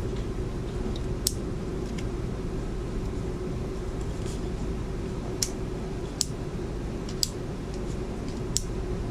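A steady low background hum, with a few light clicks scattered through it from the jigsaw being handled.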